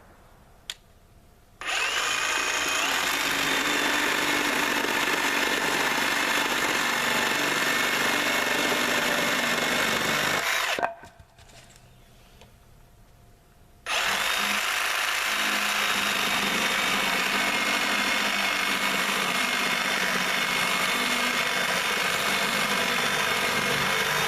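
Milwaukee cordless reciprocating saw cutting through a wooden landscaping timber. It runs steadily for about nine seconds, stops for about three, then runs again for about eleven.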